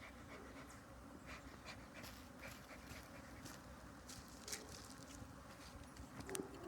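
Faint buzzing of honeybees flying around an opened hive, with scattered light clicks and one sharper click near the end.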